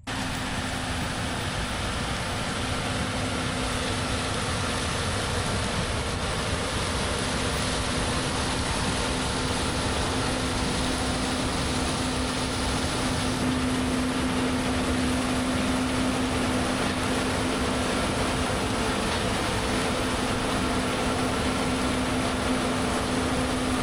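Combine harvesting corn, heard from the cab: a steady machinery drone with a constant low engine hum.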